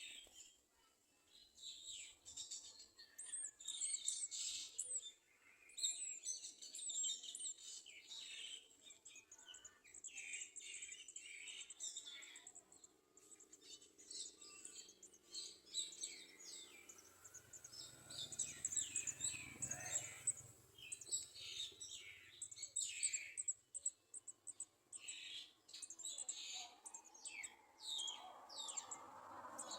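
Garden sunbirds chirping at the nest: quick, high, thin chirps in short runs, with brief gaps between them.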